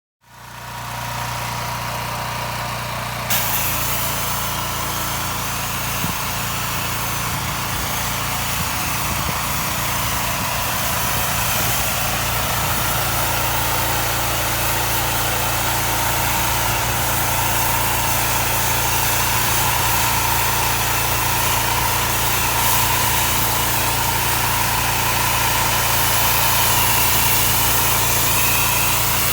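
Gas-engine pressure washer running steadily. About three seconds in, a loud hiss of water spraying joins it and keeps going.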